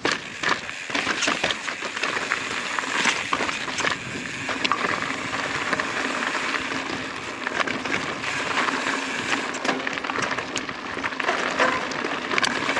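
2020 YT Izzo mountain bike ridden over rocky trail: tyres crunching over rock, with frequent sharp knocks and rattles from the bike, over a steady rush of wind on the microphone.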